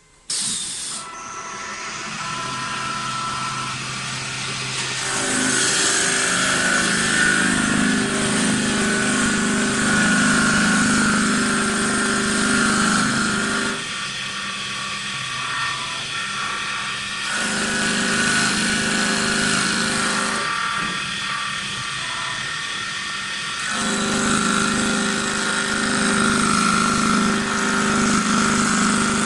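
CNC wood lathe running as it machines wooden table legs: a steady motor hum with a high whirring hiss of the work. The low hum drops away twice for about three seconds at a time.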